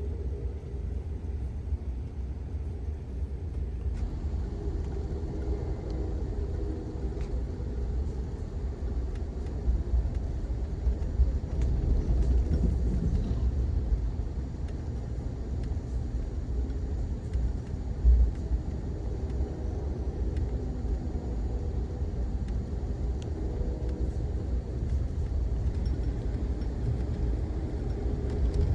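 Steady low rumble of an Amtrak Auto Train passenger car rolling along the track, heard from aboard, with a single brief thump about two thirds of the way through.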